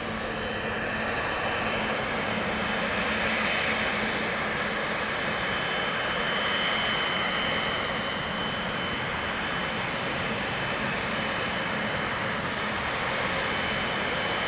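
Boeing 737-700 BBJ's CFM56-7 turbofan engines at takeoff power as the jet departs: a steady jet rumble with a thin high whine running through it, swelling slightly a few seconds in.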